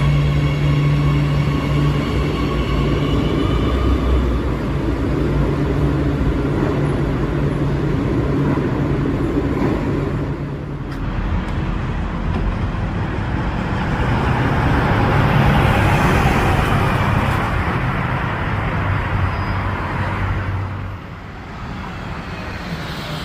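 Road traffic: a heavy vehicle's engine hums steadily for about the first ten seconds, then a vehicle passes with a rush of noise that builds to a peak midway and fades near the end.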